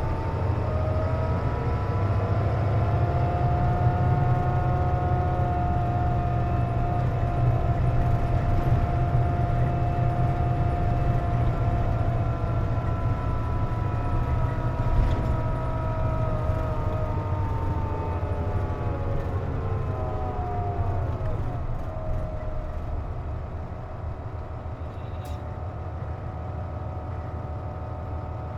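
Interior of a KC-JP250NTN city bus under way, its engine and drivetrain running with a stack of whining tones. The whine rises as the bus gathers speed, holds steady, then falls away about two-thirds of the way through as it slows. The bus is known for an odd noise that comes with its air conditioning running.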